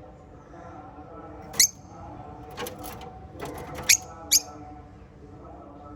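Small pet parrots (lovebirds or budgies) chirping: three sharp, loud, high calls that drop quickly in pitch, with a quick run of shorter chirps between them, over a steady low background hum.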